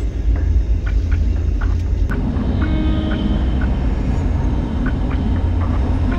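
1994 Pontiac Trans Am's 5.7-litre LT1 V8 running as the car drives slowly, a steady deep exhaust rumble.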